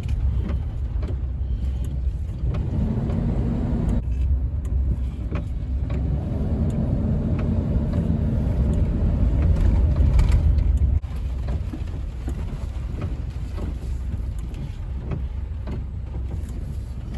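Dodge Ram van driving, heard from inside the cabin: steady low engine and road rumble that slowly swells, then drops suddenly about eleven seconds in.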